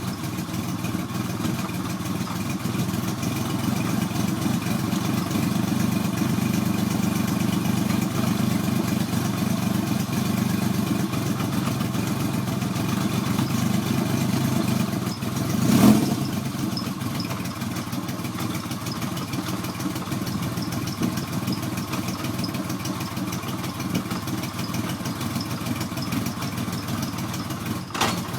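1977 Yamaha XS750's three-cylinder engine idling steadily through an aftermarket Piper exhaust, with one short rev about halfway through.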